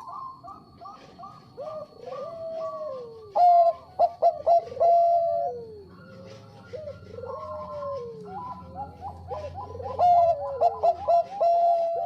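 Zebra dove (perkutut bangkok) cooing: a run of short, soft, repeated notes, some falling at the end. Fast clusters of staccato notes come about three seconds in and again near the end.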